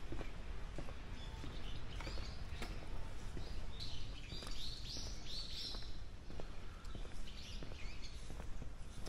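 Birds chirping and singing, with a dense run of chirps about four to six seconds in and more near the end, over a steady low outdoor rumble.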